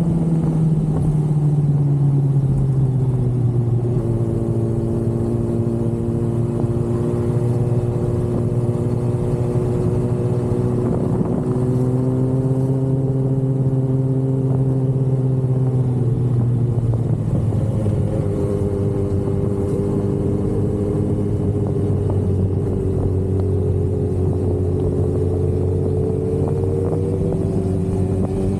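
Sport motorcycle engine running steadily under way. Its pitch eases down twice and creeps back up toward the end as the throttle changes, over a constant rush of road and wind noise.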